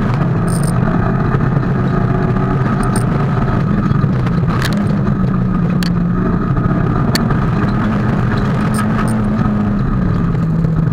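Fiat Cinquecento Group A rally car's engine running hard, heard from inside the cabin. Its note drops near the start, climbs through the middle and drops again near the end, with a few sharp clicks over it.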